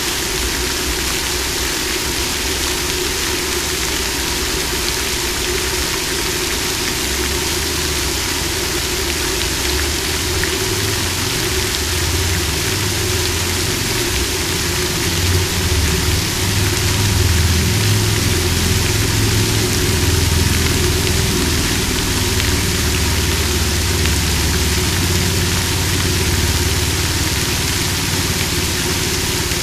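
Water fountain splashing and falling steadily. Underneath runs a low, engine-like rumble with a steady hum, growing stronger about a quarter of the way in and loudest around the middle.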